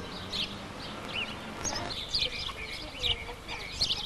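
Many birds chirping, short high calls overlapping one after another and growing busier in the second half.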